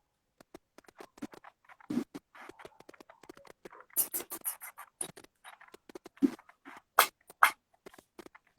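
Irregular soft taps, clicks and rustles, with a few sharper slaps about two, four and seven seconds in. These are typical of hands striking and brushing against the body and clothing while signing.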